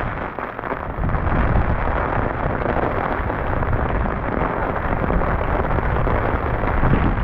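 Heavy storm rain and wind buffeting the microphone: a loud, steady rushing noise with a deep rumble underneath.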